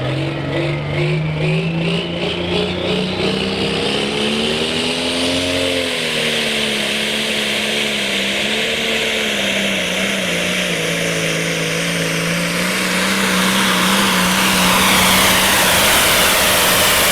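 Case pulling tractor's engine at full power hauling the sled down the track. Its note climbs over the first few seconds, wavers, then holds steady, with a high whine rising early on. It gets louder near the end.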